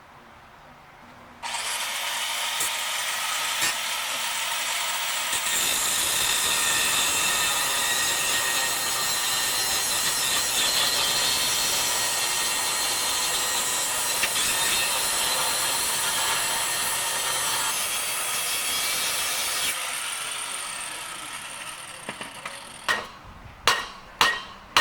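A power saw running steadily as it cuts through the rusted exhaust mid pipe, tapering off after about twenty seconds. A few sharp metal knocks follow near the end.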